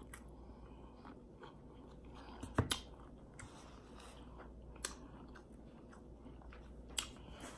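Close-mic chewing of a deep-fried egg roll with the mouth closed: quiet mouth sounds broken by a few sharp crunchy clicks, the loudest a little over two and a half seconds in.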